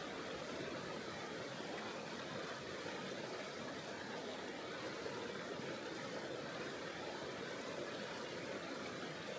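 Steady rush of a mountain river flowing over rocks, an even, unbroken water noise.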